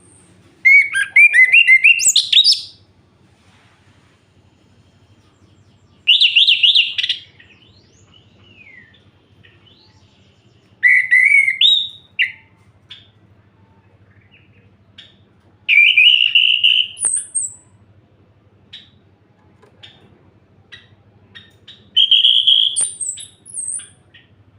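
Orange-headed thrush singing: five loud phrases of quick, varied whistled notes about five seconds apart, with short soft notes between them.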